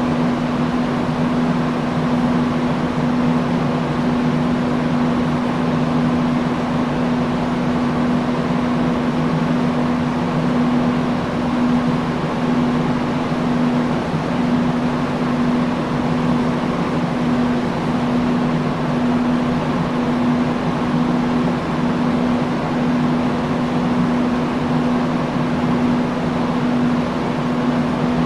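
Industrial fan running steadily: an even rush of moving air over a constant low motor hum.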